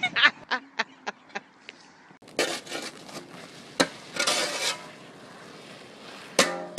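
A person's laughter dying away over the first second and a half, then a few short noisy rushes and sharp knocks, the loudest knock near the end.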